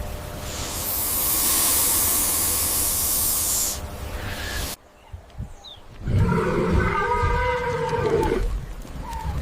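A loud hiss lasting about three seconds, then after a sudden break a single long, pitched animal call lasting a couple of seconds.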